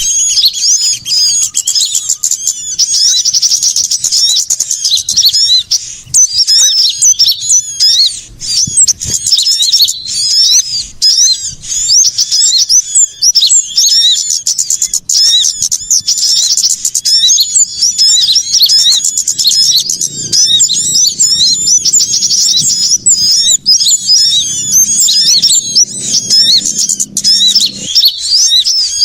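Dense, unbroken chatter of many small songbirds, with rapid high chirps and twitters overlapping one another: a bird-lure (pikat) recording of small birds calling noisily, meant to draw small birds in.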